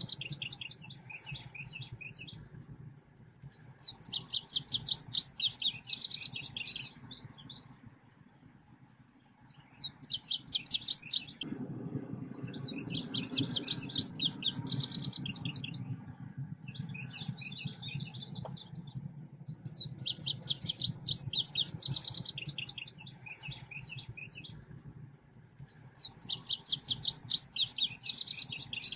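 Song of the bird known in Indonesia as selendang biru: bursts of rapid, high chirping trills about two to three seconds long, repeated every five or six seconds with short pauses between. A low hum runs underneath and is louder for a few seconds in the middle.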